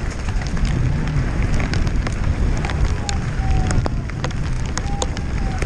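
Mountain bike ridden fast down a rough trail: a steady rumble of tyres over rocks with wind on the microphone, dense rattling clicks from the bike, and a few short squeaks about three and five seconds in.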